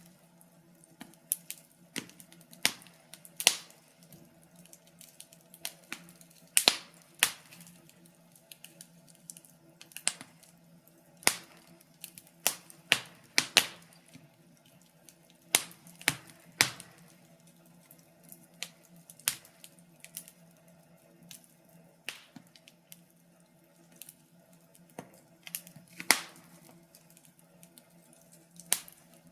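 Wood fire crackling, with irregular sharp pops and snaps at uneven intervals over a faint steady low hum.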